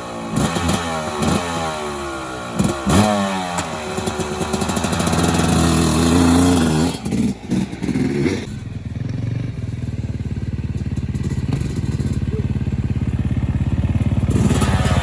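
Dirt bike engine just after starting, revved repeatedly with its pitch rising and falling. From about eight seconds in it settles into a steady, lower running note.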